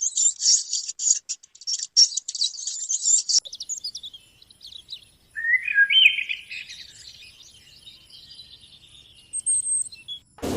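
Small birds chirping: a dense, rapid high twittering for the first three seconds or so. It changes abruptly to scattered chirps and calls, with a louder rising call about halfway through and a short high whistle near the end.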